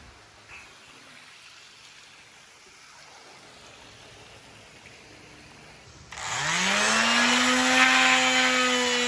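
Electric sander switching on about six seconds in, its motor whine rising in pitch as it spins up and then running at a steady speed with a hiss. Before that there is only faint background.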